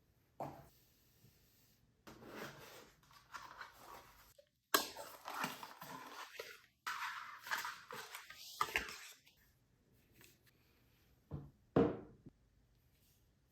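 Packaging being handled in an unboxing: irregular rustling and scraping of box and wrapping, with a few short knocks, one near the start and two close together near the end.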